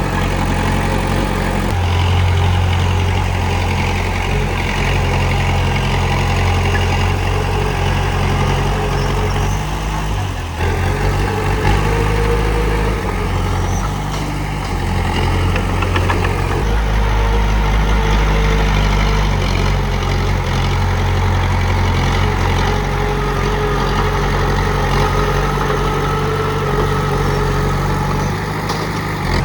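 Komatsu D31P crawler bulldozer's diesel engine running steadily, with a brief dip about ten seconds in.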